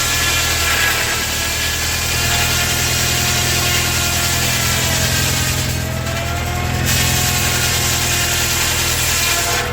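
Old engine running steadily, with a higher whine over it that sags in pitch about halfway through and then recovers.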